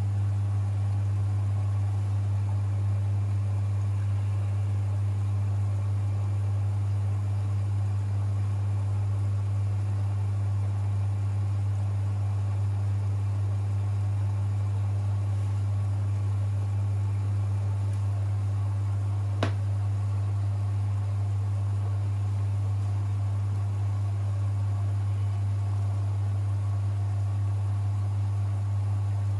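Privileg 5020 washing machine running with a loud, steady low hum, and a single click about two-thirds of the way through.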